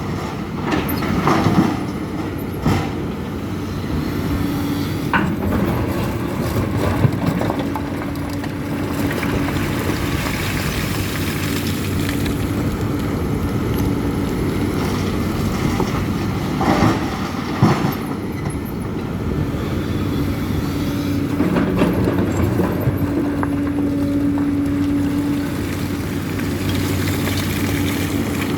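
Case CX300C excavator's diesel engine running steadily at work, with a pitched whine that comes and goes. A few short clanks and knocks stand out, twice close together a little past the middle.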